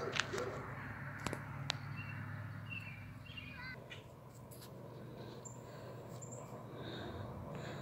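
Birds calling in short chirps and a harsh caw-like call, over a low steady hum, with a few sharp clicks in the first two seconds.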